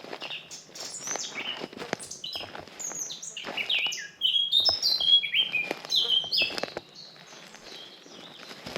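Songbirds singing: quick runs of short chirps that slide down in pitch, loudest in the middle and thinning out near the end. Footsteps on a forest path sound softly underneath.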